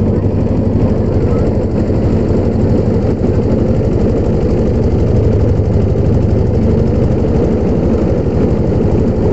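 A boat's engine running at a steady speed, close and loud, with an even, rapid pulse.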